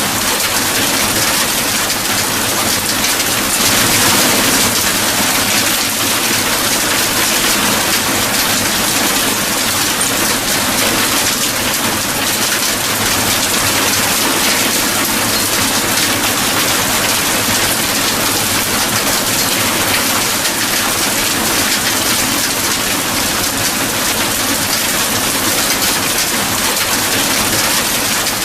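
Steady heavy rain: a dense, even hiss of rainfall without a break.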